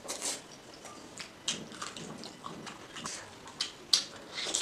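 Close-miked wet chewing and lip smacking from eating pork and rice by hand, a string of short moist smacks and clicks.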